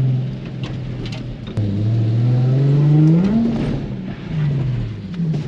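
Nissan 350Z's 3.5-litre V6 engine revving during a spin attempt on slick wet pavement. The revs climb steadily for about two seconds, starting about a second and a half in, then drop back off.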